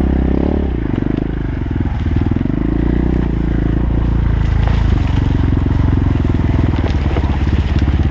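Irbis TTR 250's single-cylinder four-stroke engine running, revved up and down a couple of times and then settling to a steady, fast-pulsing run.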